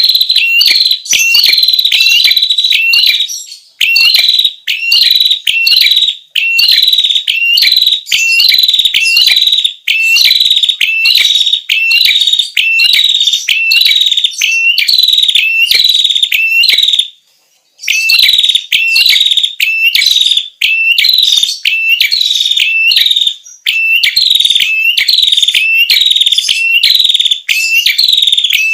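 Prenjak kepala merah song on a lure recording: a rapid run of loud, high, short call notes repeated a few times a second, with one brief pause just past halfway.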